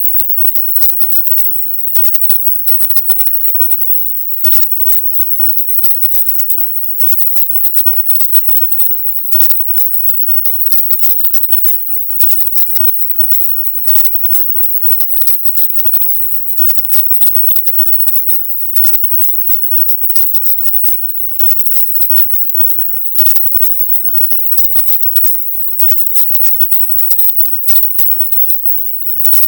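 Processed 'silent subliminal' audio: loud, harsh, rapidly chopped crackling noise that reaches high into the treble, broken by brief dropouts to silence every second or two.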